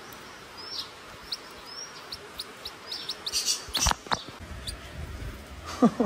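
Small bird chirping: a run of short, high chirps that come faster over about three seconds. Then a sharp knock and a low rumble of handling near the microphone.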